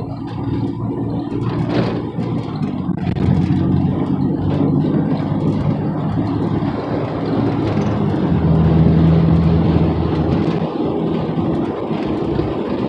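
Truck engine and road noise heard from inside the cab while driving, with a steady engine hum that grows louder over the first few seconds and is strongest around the middle.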